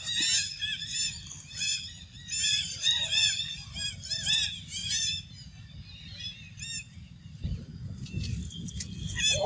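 Many short, high chirps from small birds in quick succession, thinning out about five seconds in, over a low steady rumble that grows louder near the end.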